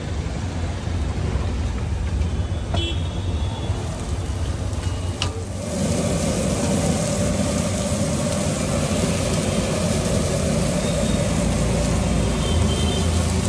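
Steady street traffic rumble, joined about six seconds in by a louder, even hiss of sliced onions sizzling in oil on a large flat iron griddle (tawa).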